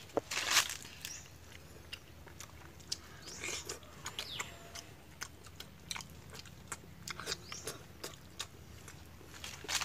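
Close-up mouth sounds of eating tamarind-sauced balut (fertilized duck egg): chewing with many small wet clicks and smacks, and a louder bite about half a second in.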